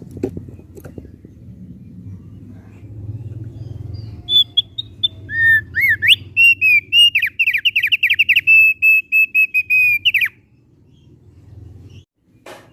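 Thick-billed white-eye (opior paruh tebal) singing: about six seconds of clear whistled song, a few short high notes followed by a fast run of repeated notes, over a low steady background hum.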